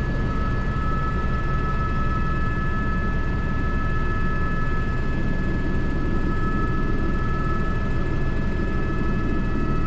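Airbus H125 (AS350 B3) helicopter in flight, heard inside the cockpit: a steady rotor and single turboshaft engine noise with a constant high-pitched whine over a low rumble.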